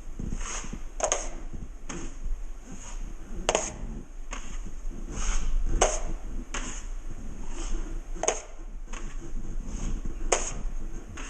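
Steel drywall knife scraping wet joint compound, with repeated short strokes a little under one a second while a skim coat is spread and its edges feathered.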